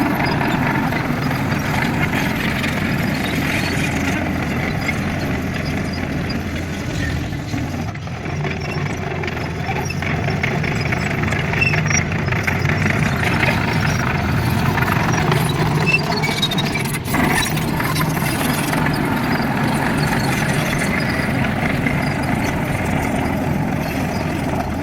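Excavator diesel engine running continuously, its loudness swelling and easing a little.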